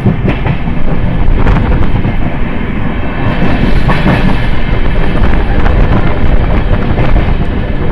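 Express train running, heard from an open coach door: a loud, steady rush of wind and wheel-on-rail rumble, with irregular clatter of the wheels over rail joints.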